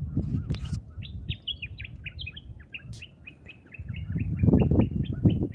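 A songbird calling a fast run of short chirps, about four or five a second. A low rumbling noise swells up under it near the end.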